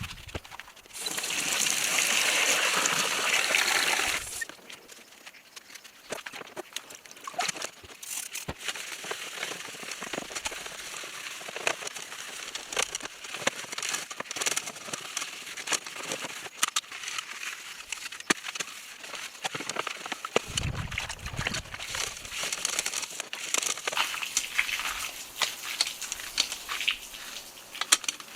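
Water gushing loudly for about three seconds, then a quieter steady rush with many small clicks and splashes.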